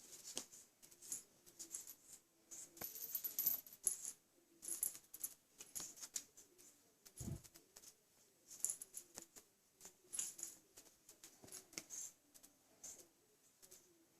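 Cats playing with a string: irregular clusters of light clicks and faint jingling, with a single low thump about seven seconds in.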